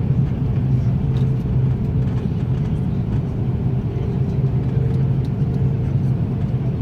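Airliner cabin noise: a steady low rumble from the engines and airflow, with a faint steady hum and a few light ticks.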